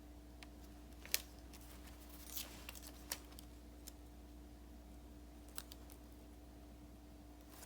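Sparse light clicks and taps of paper and stickers being handled and cut for journal decorating, over a faint steady hum.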